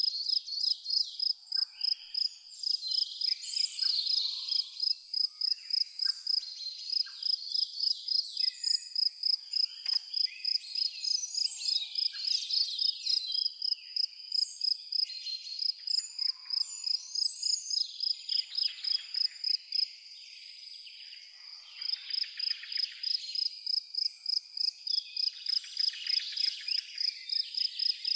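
A cricket chirping in a steady high-pitched pulse, about three chirps a second, pausing briefly about two-thirds of the way through. Birds call and sing around it.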